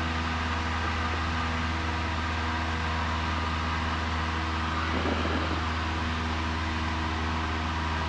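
Cessna 172N's four-cylinder Lycoming engine and propeller running steadily at climb power, a constant drone with a low hum, heard from inside the cabin.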